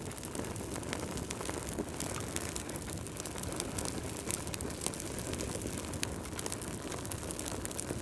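Fireplace fire crackling: frequent sharp pops and snaps over a steady low rush of burning.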